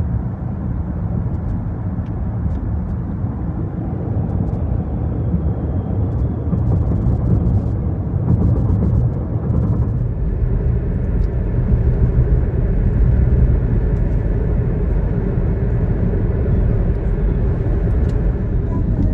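Car cabin noise while driving: a steady low rumble of engine and tyres on the road, growing slightly louder about halfway through.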